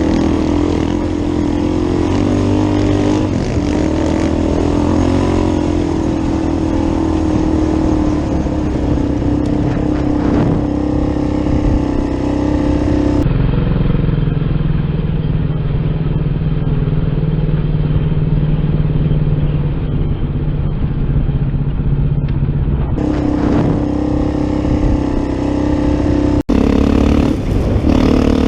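Yamaha YFZ450 sport quad's single-cylinder four-stroke engine running at a steady pitch. The engine note changes abruptly a little past halfway and again later, with a brief dropout shortly before the end.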